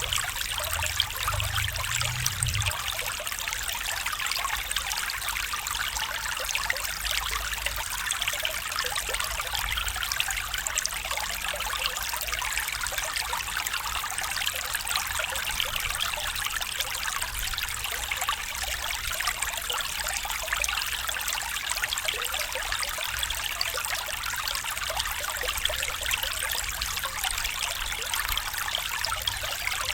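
A stream trickling and babbling over stones, a steady, even water sound, with a brief low rumble about a second in.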